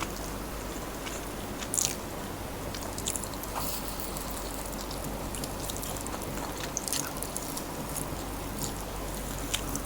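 Close-up eating sounds of someone biting and chewing crispy fried chicken: scattered short crunches and wet chewing, with a sharper crunch about two seconds in.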